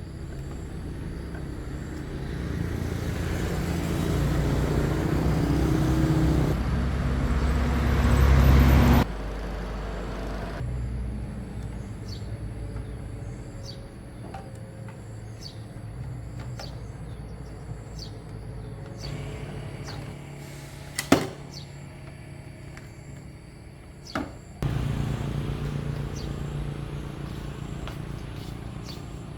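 A motor or engine running with a low hum, growing louder over the first several seconds and then cutting off abruptly about nine seconds in. A sharp click comes about twenty-one seconds in, and the louder running sound starts again near the end.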